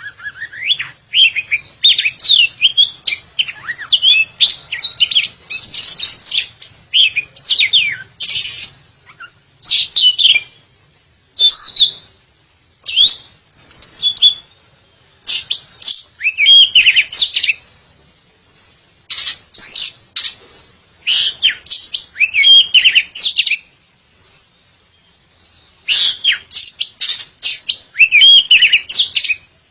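Oriental magpie-robin (kacer) singing in full voice: fast, varied phrases of sweeping whistles and chirps, in bursts of a few seconds with short pauses between them.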